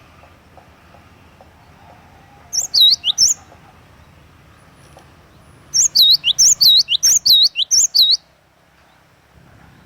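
Cinereous tit (gelatik batu) calling in rapid series of high, swooping whistled notes: a short burst about two and a half seconds in, then a longer run of about ten notes from about six to eight seconds.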